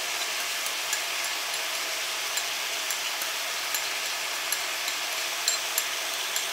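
Chicken and pineapple pieces sizzling in a hot wok over a full gas flame, a steady hiss with scattered small pops.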